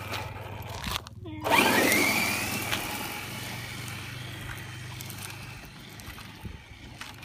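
Electric RC car accelerating with a crunch of tyres on dirt and gravel. About a second and a half in its motor whines up in a rising pitch, then the sound slowly fades away.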